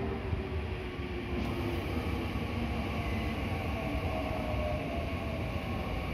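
Electric train running: a steady rumble with faint whining tones, some rising in pitch.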